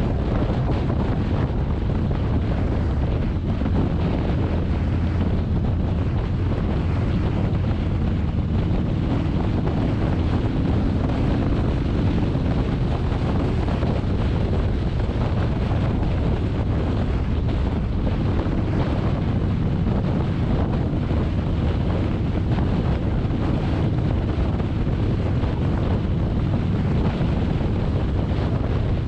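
Steady wind rush buffeting the microphone of a motorcycle riding at road speed, with no changes or separate events.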